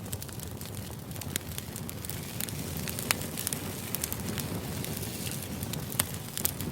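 Fire crackling: a steady rushing hiss with scattered sharp pops.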